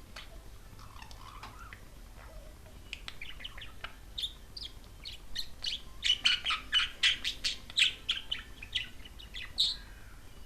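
Pet budgerigar chattering in a rapid run of short chirps and clicks, starting about three seconds in and growing denser and louder from about six seconds until near the end.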